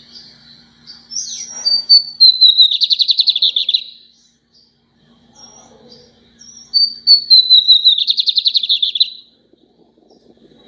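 Lined seedeater (bigodinho) singing two song phrases a few seconds apart. Each is a run of high notes gliding downward into a fast, buzzy trill.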